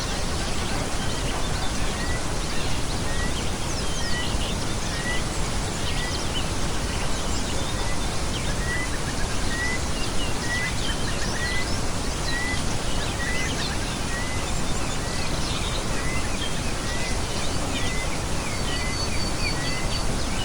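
Small birds chirping and calling over a steady background hiss, one of them repeating a short note a little more than once a second. A quick rapid trill comes near the end.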